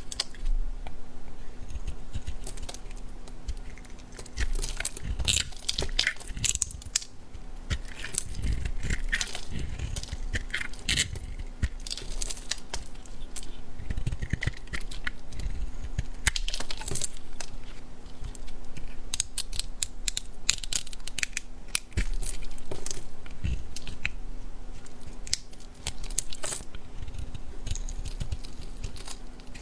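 Dry bar soap being cut and crushed: a long run of irregular crisp crackles and crunches, with now and then a duller thump.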